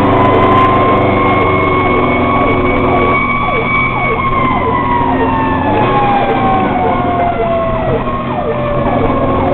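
Fire engine sirens sounding while the engine drives under way. One siren holds a long wail that rises, levels off and then winds slowly down in pitch, while another runs a fast repeating yelp about twice a second, over the steady drone of the truck's engine.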